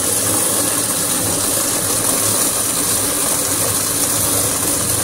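Twin-tub washing machine's water pump running with a very loud, steady noise over its motor hum. The noise comes from a small clip lodged inside the pump.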